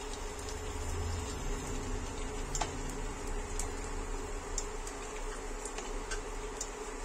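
Raisins frying in hot oil and ghee in a kadhai: a steady soft sizzle, with scattered light clicks as a metal spatula stirs them, over a faint steady hum.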